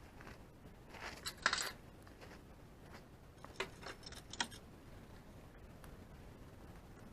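A few light clicks and clinks of small hard objects: a short cluster about a second in and another around four seconds in.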